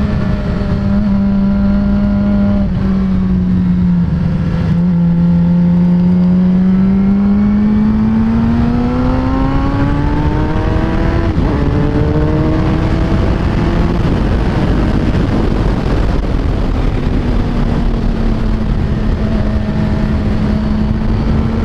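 2007 Suzuki GSX-R 750 inline-four engine running under way, heard from the rider's seat with wind rushing over the microphone. The engine note rises steadily through the middle as the bike accelerates, then drops back to a steady lower cruise near the end.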